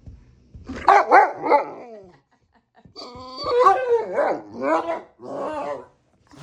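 A big mastiff-mix dog vocalising with barks and whining yips in two bouts, a short one of about three calls and then, after a brief pause, a longer run of calls.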